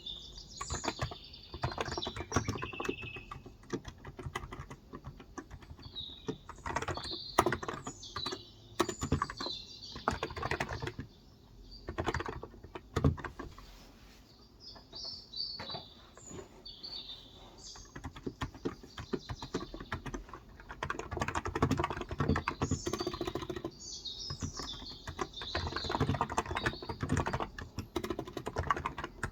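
Typing on a Cox Endeavour electrostatic-capacitive (non-contact) tenkeyless keyboard with 35 g switches, in uneven bursts with a short lull about halfway. Birds chirp in the background at several points.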